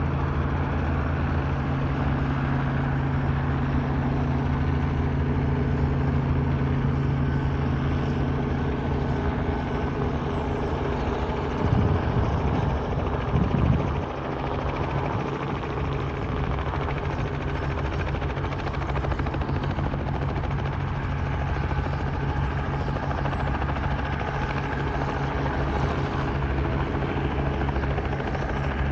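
Robinson R44 and AS350 helicopters hovering: a steady rotor and engine drone. Its pitch pattern shifts about halfway through, with two short loud bumps near the middle.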